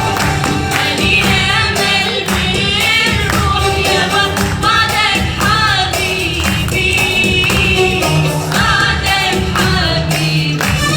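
Live performance of a traditional Iraqi song: voices singing in chorus over instrumental accompaniment, with a steady beat of hand percussion.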